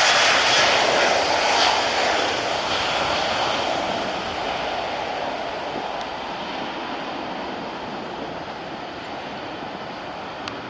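Jet airliner's engines giving a steady rushing roar that fades gradually as the aircraft moves away.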